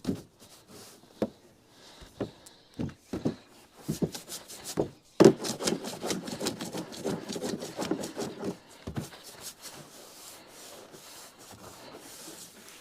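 Someone moving about on a bus roof: scattered knocks and creaks, then a loud thump about five seconds in, followed by a few seconds of rubbing and scraping against the roof.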